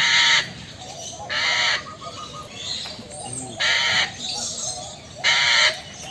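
A parrot giving four loud, harsh squawks, each about half a second long and spaced roughly a second and a half apart.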